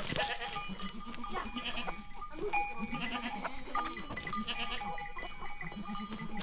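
Sheep and goats bleating, many calls overlapping at once, with short high chirps among them.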